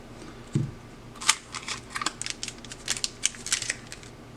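Booster packs and tin contents being handled and pulled out by hand: an irregular run of light clicks and crinkles.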